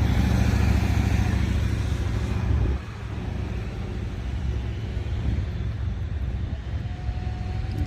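Motorcycle engine rumble, loud at first, dropping off sharply about three seconds in, then continuing more quietly.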